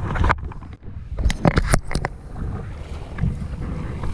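Creek water sloshing and splashing close to the microphone, with a cluster of sharp splashes about a second and a half in. A low rumble of moving water and wind on the microphone runs underneath.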